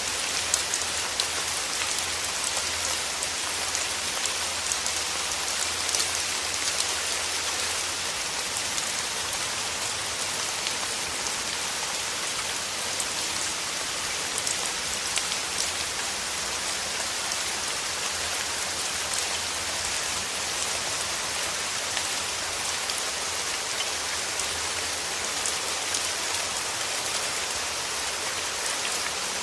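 Steady rain falling, an even hiss with many small individual drops ticking on a surface.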